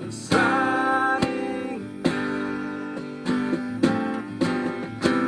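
Acoustic guitar strummed in a slow, even rhythm, accompanying a sung hymn; a held sung word comes near the start.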